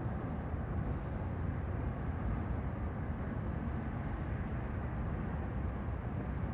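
Steady low rumbling outdoor noise with no tones in it.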